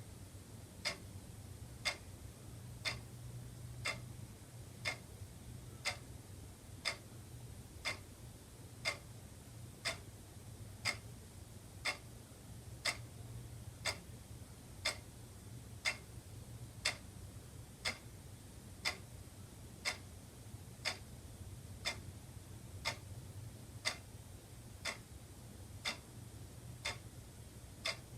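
Wall clock ticking steadily, one sharp tick about every second, over a faint low hum.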